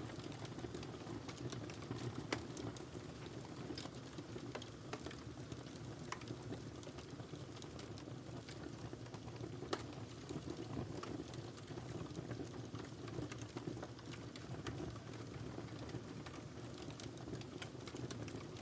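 Wood fire burning in a fireplace: a steady low rumble of flames with irregular crackles and small pops throughout, two sharper pops about two seconds in and near the middle.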